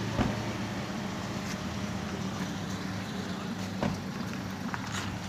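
A vehicle engine running with a steady low hum, with a few short knocks or clicks over it.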